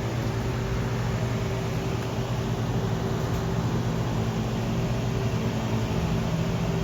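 Steady mechanical hum from a running machine or engine, holding an unchanging low drone under a broad hiss.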